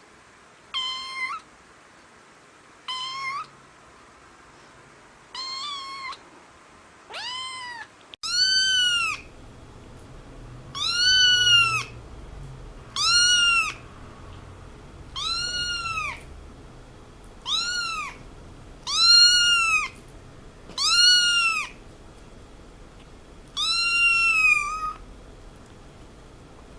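A cat meowing over and over: about a dozen high meows, each rising and then falling in pitch, roughly every two seconds. The first four are softer, the rest louder.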